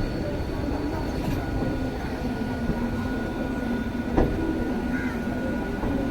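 Mumbai suburban electric local train running, a steady rumble with a thin high steady whine over it and one sharp knock about four seconds in.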